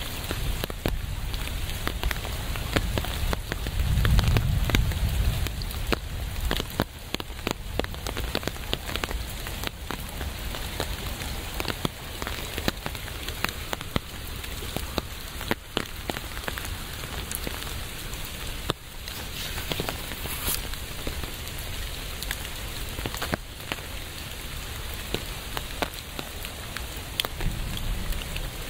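Steady rain with a dense patter of individual drops hitting a surface. A low rumble swells briefly about four seconds in and again near the end.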